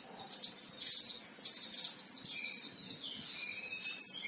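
A mantenan songbird singing vigorously. It gives a long phrase of rapid, high chattering notes, then from about three seconds in a few separate swooping whistles.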